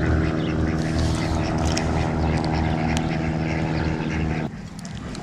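A motor engine drones steadily with an even pitched hum, then cuts off suddenly about four and a half seconds in.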